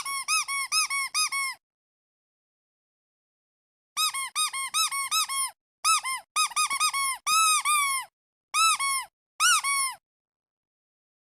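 Squeaky duck toy squeezed again and again, each squeak short and arching up then down in pitch. A quick burst of about seven comes first, then a pause of about two seconds, then a longer run with small gaps that stops about ten seconds in.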